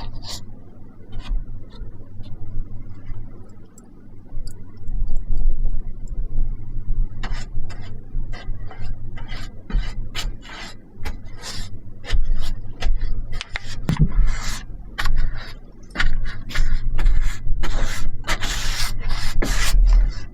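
Many short, irregular scraping strokes, coming thicker and faster in the second half, over a steady low rumble.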